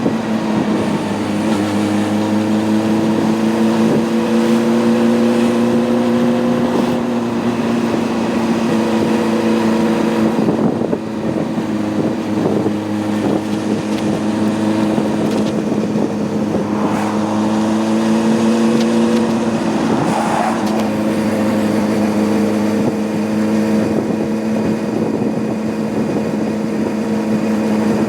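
Honda CB600F Hornet's inline-four engine running at a steady, even pitch. The pitch eases slightly a few times, and the level dips briefly about eleven seconds in before picking up again.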